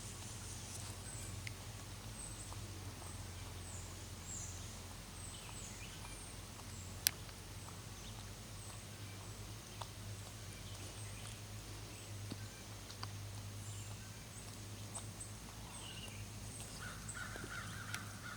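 Birds chirping faintly at a pond, with many short, high, falling chirps repeating throughout over a steady low hum. There is one sharp click about seven seconds in, and a brief harsher call near the end.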